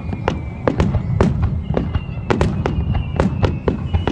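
Fireworks display: a rapid, irregular string of sharp bangs, two or three a second, over a continuous low rumble.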